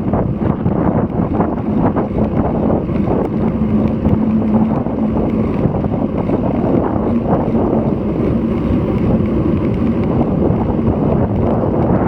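Strong wind buffeting the microphone of an action camera on a moving road bike, a loud, steady rumble, with gusty typhoon winds adding to the rush of air.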